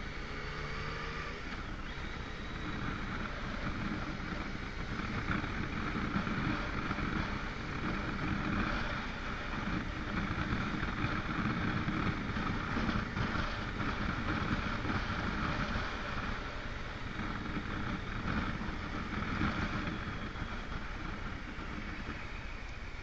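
Motorcycle on the move, its engine running under steady wind and road noise. In the first second and a half the engine note climbs briefly before settling back into the steady ride.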